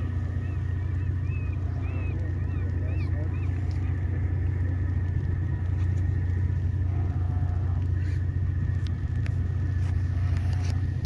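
Steady low drone of the ship's engines. Over it comes a run of short, high, repeated seabird calls, two or three a second, that stops about three seconds in.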